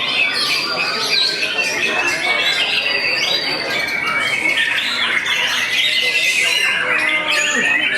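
Caged white-rumped shamas (murai batu) singing in competition, a dense run of overlapping whistled and chattering phrases with no break.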